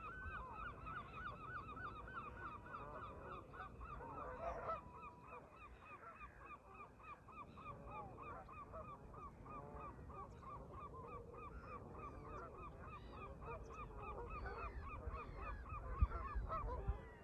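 A flock of Canada geese honking continuously, many overlapping calls at once. Wind rumbles on the microphone underneath, stronger near the end, with one sharp buffet.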